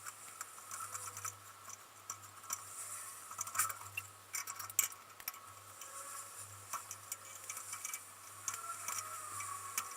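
Light, irregular metallic clicking and tapping from hand tools working on a pickup truck's rear drum brake, with a few sharper clicks in the middle.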